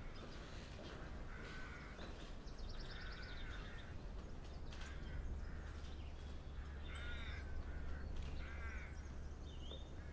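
Birds calling: about five short, arching calls a second or two apart, with higher chirps and a brief trill, over a low steady hum.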